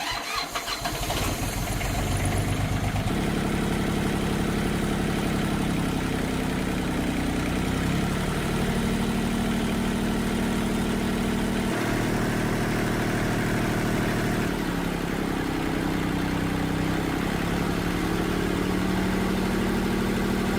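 Tractor engine starting and catching, building up over about two seconds, then running steadily with its speed changing several times.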